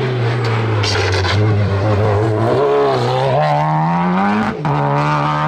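Race car engine pulling hard: the revs ease off, hold, then climb, and drop sharply with an upshift near the end.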